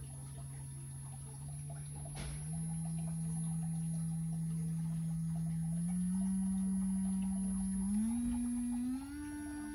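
Electric nail drill motor running with a steady hum that steps up in pitch several times, as the speed is turned up notch by notch.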